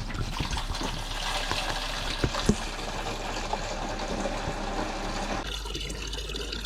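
Water running into a jug, filling it, with a couple of short knocks about two seconds in; the rush of water thins out near the end.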